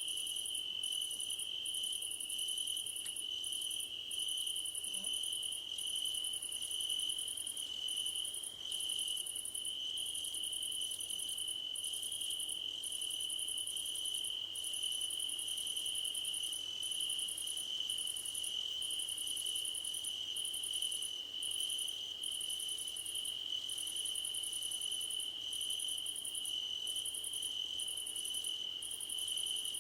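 A chorus of crickets singing: one steady, unbroken high trill, with a higher chirping over it that comes in short repeated bursts.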